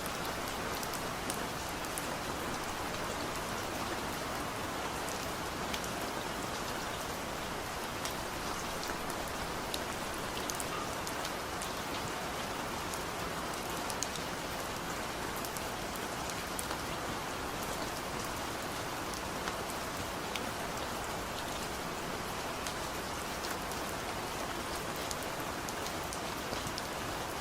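Steady rain falling, an even hiss of rain with many small, scattered drop ticks throughout.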